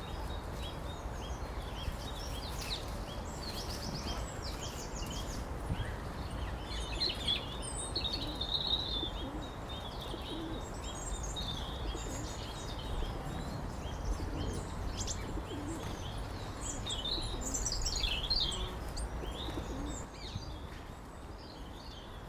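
Small songbirds chirping and calling, several at once, with a quick trill about three seconds in and a busier patch of calls near the end, over a steady low rumble.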